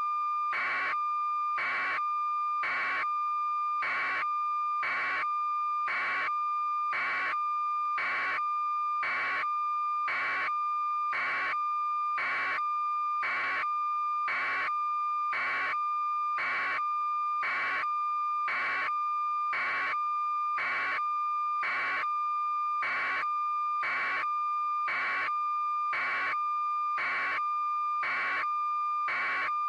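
Electronic beeping that repeats evenly, about one and a half beeps a second, over a steady high tone.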